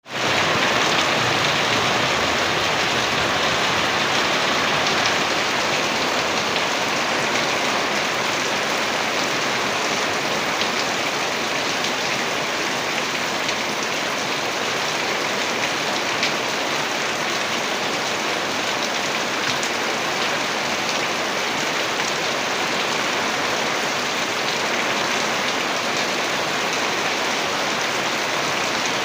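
Heavy rain falling steadily, a dense even hiss of drops with scattered sharper ticks of drops hitting a surface.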